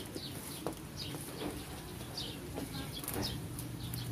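Small birds chirping over and over in quick, short falling chirps, a few each second, with the crackle and rustle of a paper letter being unfolded.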